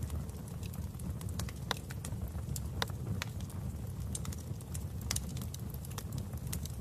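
Wood fire burning in a fireplace: a steady low rumble of flames with irregular sharp crackles and pops, about two a second.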